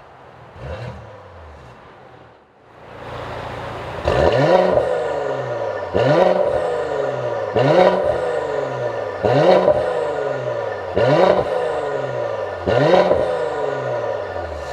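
Mercedes-AMG GLE43's M276 twin-turbo V6 revved through a catalytic downpipe and valved cat-back exhaust: one small blip near the start, then from about four seconds in, six sharp throttle blips evenly spaced under two seconds apart, each rising fast and falling back to idle.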